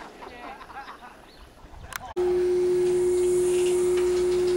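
Faint voices, then a click about two seconds in, after which a loud, steady single-pitch hum sets in abruptly and holds without change.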